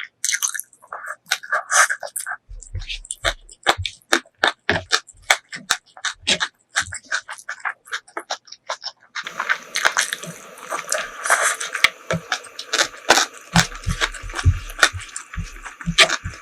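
Close-miked eating sounds: wet chewing with many quick smacking and clicking mouth noises and a few low bumps. A steady hiss comes in about nine seconds in and stays.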